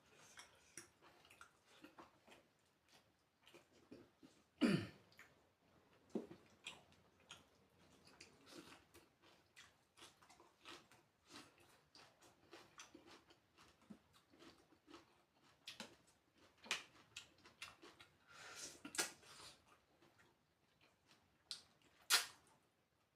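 A person eating on a close microphone: chewing and mouth noises with scattered small clicks, and a few louder eating sounds about 5, 19 and 22 seconds in.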